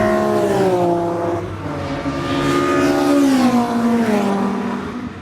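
Race cars' engines at high revs going by on the circuit, the engine note falling in pitch twice as they pass.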